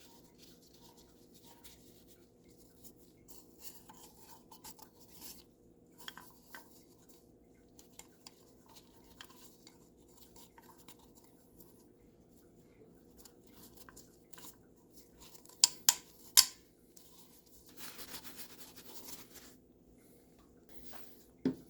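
Faint clicks, taps and rubbing of small plastic parts being handled: seals being changed on a plastic cartridge oil filter housing. A few sharper clicks come close together about two-thirds of the way through, followed by a brief soft rustle.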